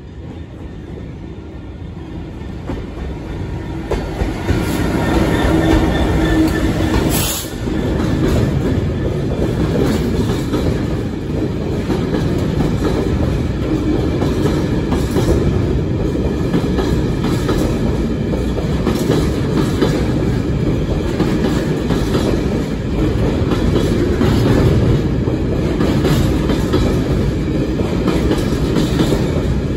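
Class 66 diesel locomotive approaching and running through, its two-stroke V12 engine note growing louder until it passes about seven seconds in. A long train of open box wagons then rolls by with a steady rumble and a continual clickety-clack of wheels over the rail joints.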